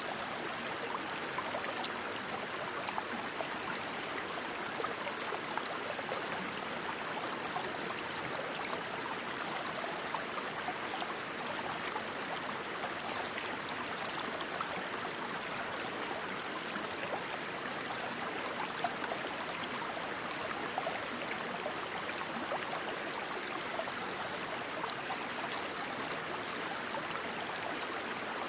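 Rushing stream water running steadily, with short high-pitched chirps sounding at irregular intervals and a brief trill twice.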